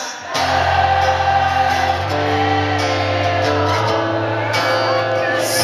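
A rock band playing live in concert: sustained chords over a steady low bass note, with singing. The chord changes about two seconds in and again near four seconds.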